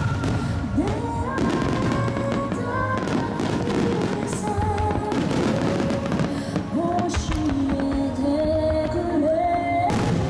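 Large aerial fireworks bursting and crackling in quick succession, over melodic music played through loudspeakers for the display.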